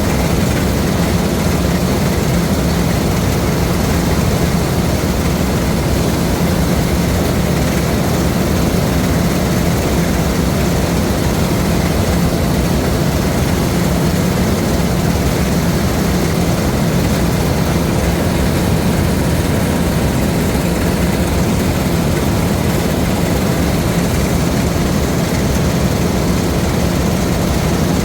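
LOVOL RG130 EVO rice combine harvester running steadily while harvesting: a loud, even drone of engine and machinery with no change in pace.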